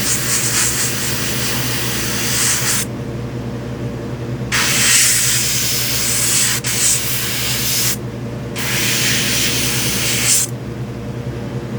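Airbrush spraying paint in three long bursts of hiss, each switched on and off at the trigger, over a steady low hum.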